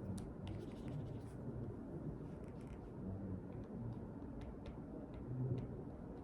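Writing at a desk: light, scattered taps and scratches over a low steady room hum.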